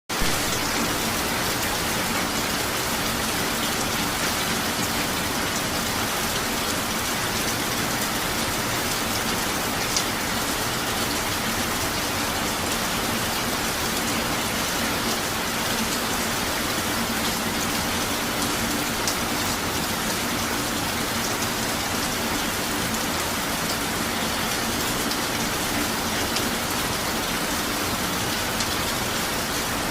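Steady rain falling, an even hiss with a few sharper drop taps now and then.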